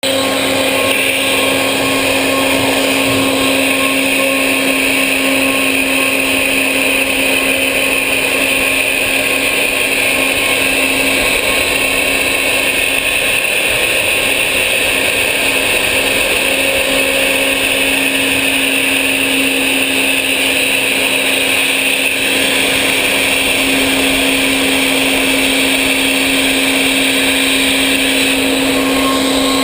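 CNC machine running and cutting: a steady spindle whine over a constant hiss of machining noise.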